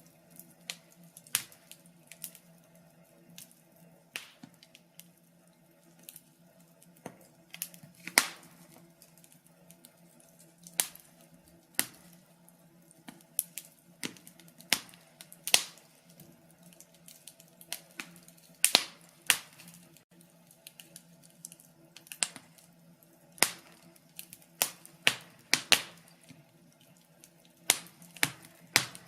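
Wood fire in a fireplace crackling, with irregular sharp pops, sometimes several in quick succession, over a faint steady low hum.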